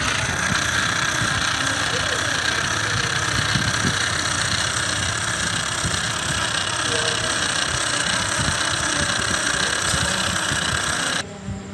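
Homemade V4 model-aircraft engine running steadily with a dense, buzzing rush. It cuts off abruptly about eleven seconds in.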